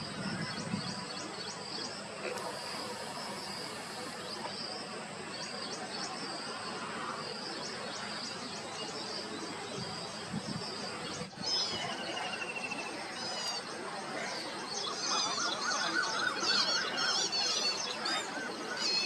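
Birds chirping and calling over a steady outdoor background hiss. The calls grow busier and louder from about two-thirds of the way in.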